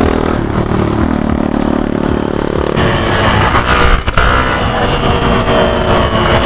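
Hero Xpulse 200 single-cylinder motorcycle engine running under throttle on a dirt trail, its pitch stepping higher about three seconds in as it picks up speed.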